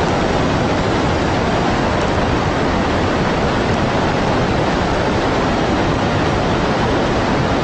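Tsunami floodwater rushing past, a loud, steady, unbroken wash of noise.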